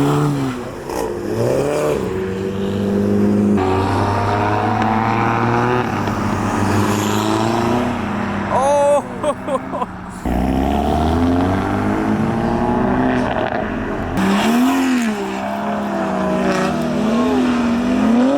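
Modified cars' engines accelerating away from the lights and passing, the revs rising and falling with gear changes and a stretch of steady engine note in the middle. A short shout of "Oh!" about halfway through.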